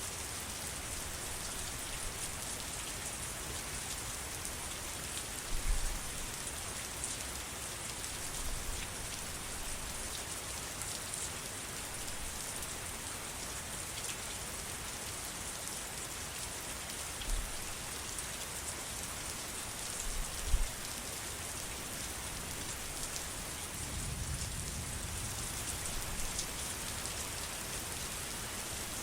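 Steady rain falling as an even hiss. A few brief low thumps come through about 6, 17 and 20 seconds in, with a soft low rumble near the end.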